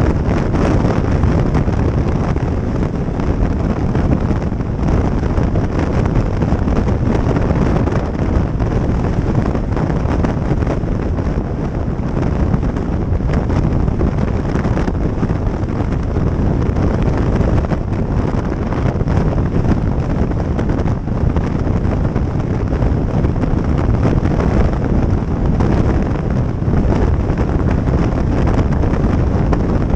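Wind rushing over the microphone of a moving motorcycle, a steady deep rush that never lets up.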